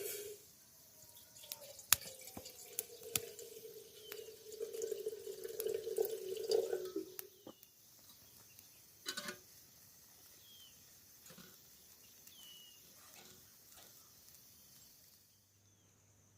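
Water being poured, with a tone that slowly falls in pitch and some clicks, stopping about seven seconds in. Short bird chirps are heard now and then.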